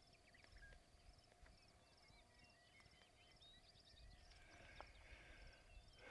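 Near silence: faint, scattered bird chirps over quiet outdoor ambience.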